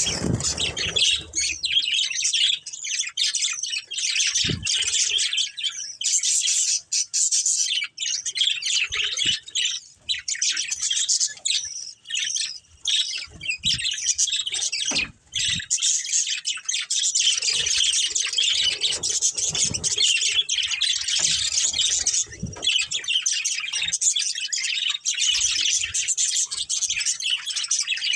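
Budgerigars chattering and chirping continuously, a dense stream of warbles and short squawks, with a few faint knocks in between.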